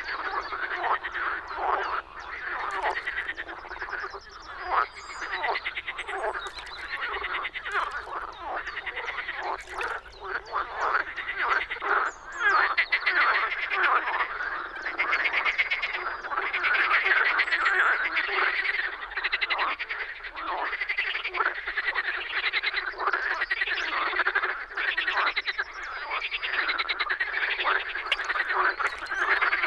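A chorus of marsh frogs (Pelophylax ridibundus) calling, with many rapid pulsed croaks overlapping in a dense, unbroken mass.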